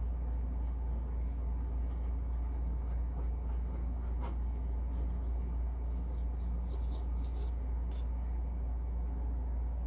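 Faint brush strokes on watercolor paper, soft scratchy rubbing with a few light ticks, over a steady low hum.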